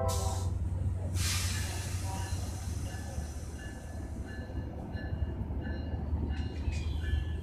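NJ Transit bilevel passenger train running on the track: a steady low rumble, with the last of a horn blast fading out at the very start and a short hiss about a second in. Faint short high tones repeat through the rest of it.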